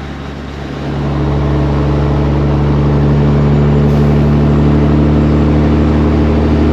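Semi truck's diesel engine heard from inside the cab while driving. It gets louder about a second in as it comes under load, then runs steadily at an even pitch.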